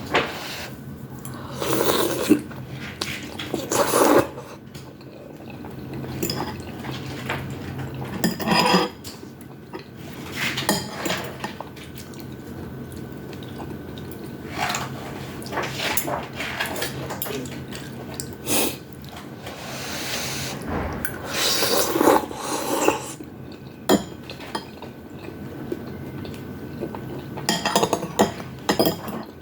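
Eating sounds from a bowl of udon noodles: utensils clinking against the bowl now and then, with short bursts of slurping and chewing between them.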